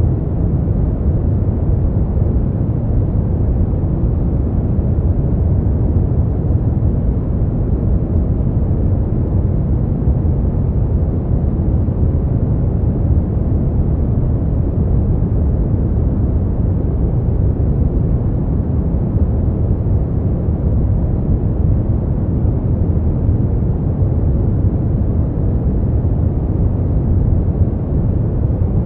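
Steady sleep-noise track: a continuous deep, rumbling hiss with most of its weight in the low end and little treble, unchanging throughout.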